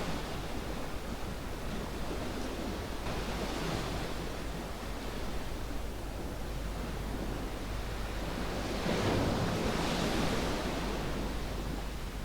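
Ocean waves washing up on a sandy beach, a steady surf hiss that swells with a wave about three seconds in and a bigger one about nine seconds in.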